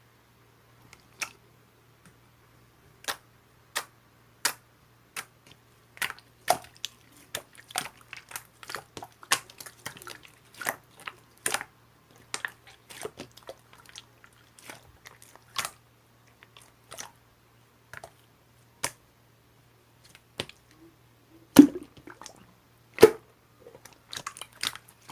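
Close-up crisp crunching clicks, irregular and a few a second, with two louder crunching thumps near the end.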